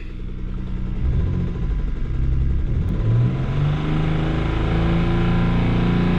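Twin-turbo V6 of a 1992 Mitsubishi 3000GT VR4 running, its note climbing as it is revved from about a second in, then held at a higher steady speed.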